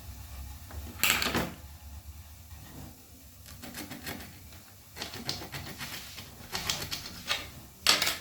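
Craft materials being handled on a work surface: short bursts of rustling, scraping and light knocking, the loudest about a second in and near the end.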